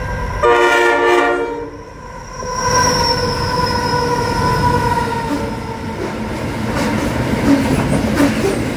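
Aurizon diesel freight locomotive sounding its horn twice while passing: a short blast, then a longer one that fades and sags slightly in pitch. It is followed by the steady rumble and regular clickety-clack of a long minerals train's wagons rolling by.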